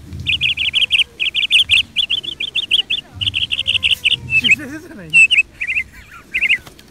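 A bird calling in the trees: quick runs of short, high chirps, six to eight notes to a run, repeated with brief gaps and breaking into shorter groups after about four seconds.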